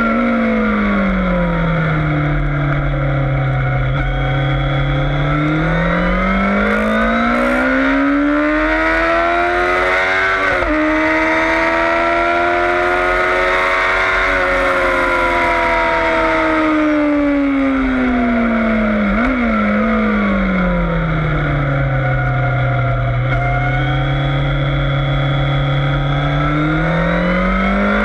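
Yamaha FZS600 Fazer's inline-four engine at track pace: the pitch drops as the rider shuts off and shifts down for a corner, holds low through it, then climbs steadily back up under hard acceleration. This happens twice, with a low rush of wind underneath.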